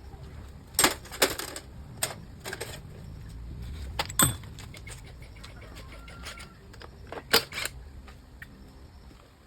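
Irregular sharp metallic clicks and clinks in small clusters, with a brief ring about four seconds in: hand tools and small engine parts being handled and set down during a motorbike top-end rebuild.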